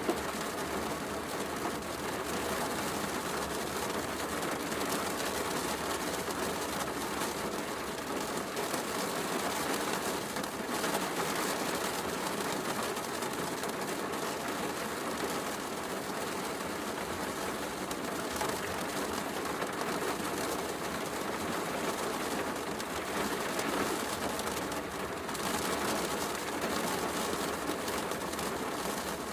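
Steady heavy rain mixed with a wood fire crackling, an even hiss dotted with fine pops.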